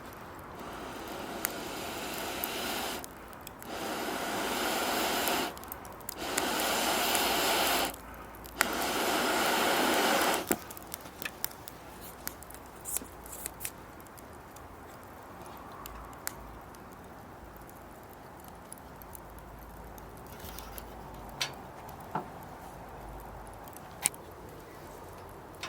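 Four long rushes of air, each about two seconds with short breaks between, as air is blown into the charcoal or wood fire. After about ten seconds they stop and the fire crackles faintly with scattered small pops.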